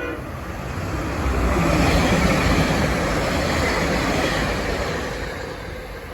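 Passenger train passing at speed, a rush of wheel and rail noise that builds over the first two seconds, holds, then fades toward the end.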